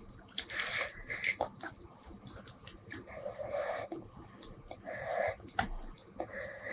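Close-miked eating sounds from someone chewing a spicy seafood dish: several short bursts of chewing with many small clicks between them.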